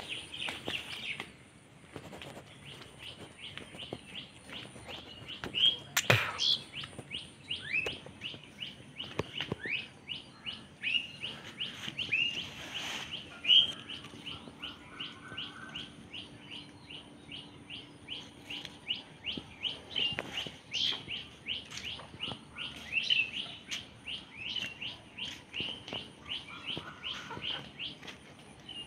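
Birds chirping: an unbroken run of short, high chirps, two or three a second, with a sharp click about six seconds in.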